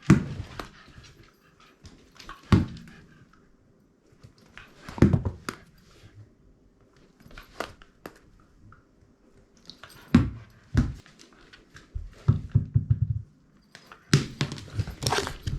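Shiba Inu playing with a ball, pouncing on it: separate thumps and knocks every couple of seconds, a quick run of soft regular beats about twelve seconds in, and a busier patch of knocks near the end.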